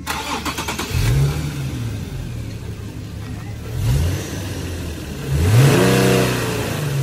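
Infiniti G37's 3.7-litre VQ37VHR V6 on its stock intake starts up and is revved three times. The first rev comes about a second in, a quick blip follows near four seconds, and a longer, louder rev around six seconds falls back to idle.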